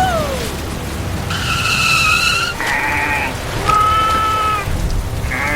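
A series of about five pitched animal cries, one falling at the start and the rest held for half a second to a second each, over a steady low engine rumble.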